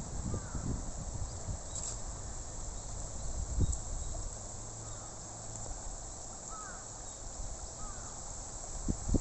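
Steady outdoor background hiss with a few short, faint chirps scattered through it.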